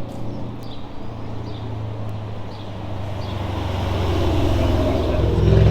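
A car engine running at a steady low note that grows louder over the last few seconds.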